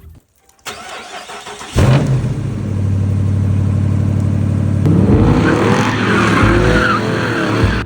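A car revving hard with tyre and skidding noise, starting a couple of seconds in; the engine note wavers from about five seconds in.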